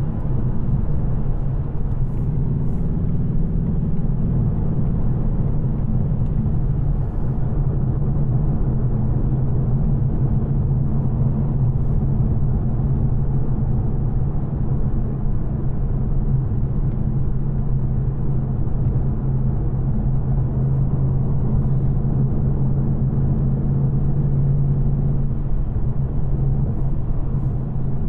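2024 Ford Mustang GT's 5.0-litre V8, still on its factory headers, running at a steady engine speed: a steady low drone, easing slightly near the end.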